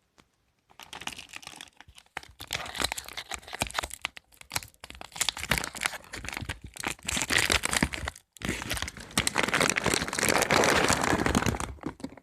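Crinkling and crackling of packaging being handled, in several spells with a brief break about eight seconds in.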